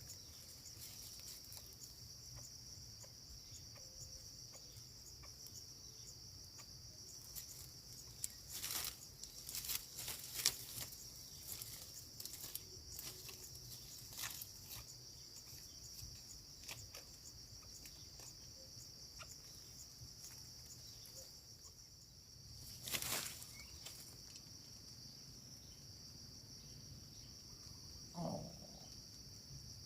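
Steady high-pitched drone of insects, with scattered rustles and clicks a third of the way in and again past the middle, and a brief low call near the end.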